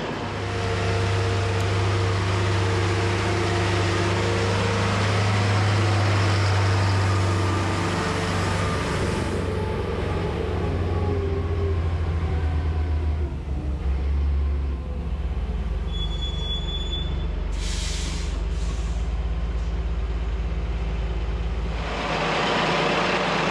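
Heavy diesel engine of earth-moving equipment running steadily, its pitch dropping in two steps around the middle, with a short hiss a few seconds later.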